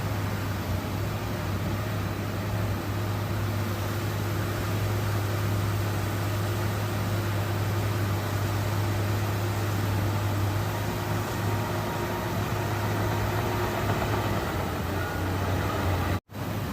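Bulldozer's diesel engine running steadily under load, a constant low hum with a wash of mechanical noise over it; the sound cuts out for an instant near the end.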